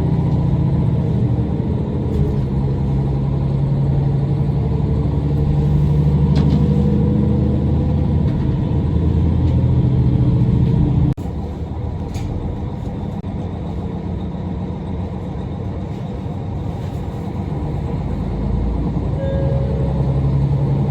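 Diesel railcar running along the line, heard from on board: a steady low engine drone with rail and running rumble. About eleven seconds in the sound drops suddenly to a quieter stretch of the same rumble.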